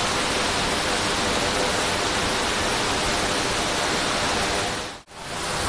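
Water from the overflowing dam rushing down its spillway in a steady, even rush. It drops out sharply for a moment about five seconds in, then comes back.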